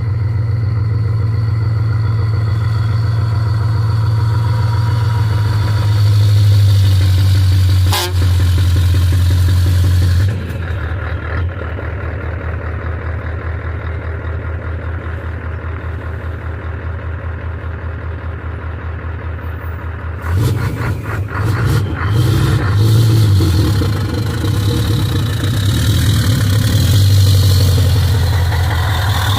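Scania V8 diesel truck engine running. It holds steady for about ten seconds, with a sharp click around eight seconds in, then settles to a quieter, evenly pulsing idle. From about twenty seconds in it is revved up and down several times.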